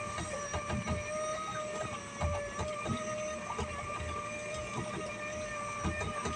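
A motor running with a steady whine, under irregular low knocks.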